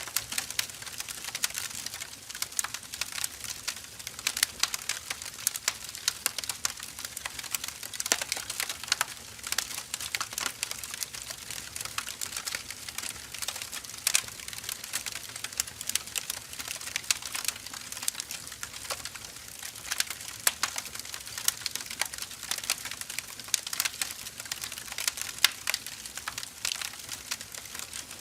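Burning firewood crackling: dense, irregular sharp pops and snaps over a soft steady hiss.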